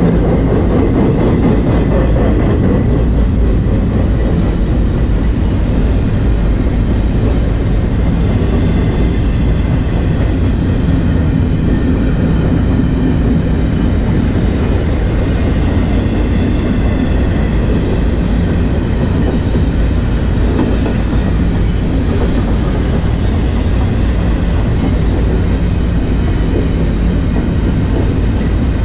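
Freight cars of a BNSF intermodal train rolling past on the rails: a steady, loud rumble of wheels and cars that holds even throughout.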